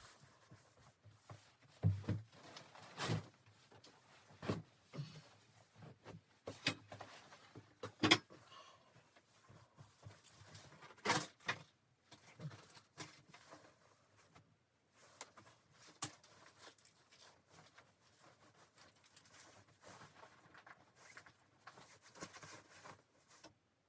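Scattered soft knocks, clicks and rustles at irregular intervals, the sharpest about 8 and 11 seconds in.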